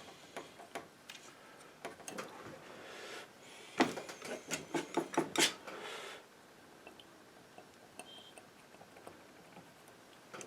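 Palette knife working oil paint, with scattered ticks and scrapes and a louder run of clicks and scraping taps between about four and six seconds in.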